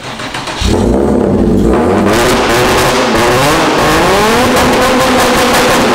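Nissan 350Z V6 in a tube-frame drift build, run by a Haltech ECU, is started again. It cranks briefly, catches about half a second in, and runs loud with a couple of blips of the throttle.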